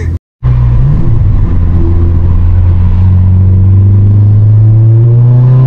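Car engine running loud and steady, its pitch slowly rising over the last couple of seconds.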